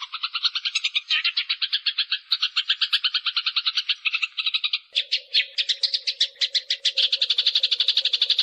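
Eurasian tree sparrows chattering in a fight: a fast, unbroken run of harsh chirps, about ten a second. A lower, steady note joins the chatter about five seconds in.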